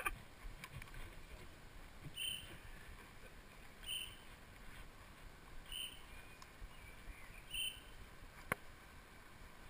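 A bird's short high call note, repeated four times about two seconds apart, over a faint low rumble. A single sharp click sounds near the end.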